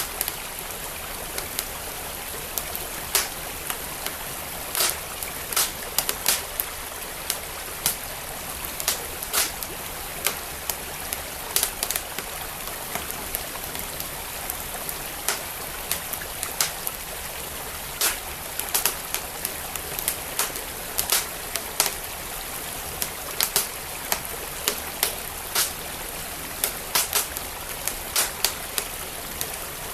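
Wood fire crackling with irregular sharp pops, bunched several close together at times, over the steady rush of a flowing creek.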